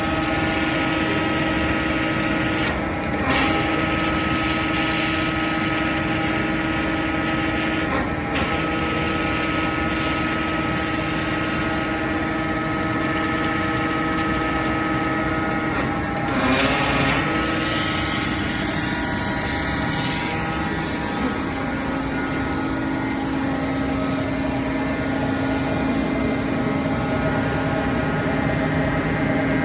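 Motor driving a pump on a test run, running steadily with a constant hum and whine. There are a few brief dips in the sound, and the hum settles slightly lower in pitch a little past the middle.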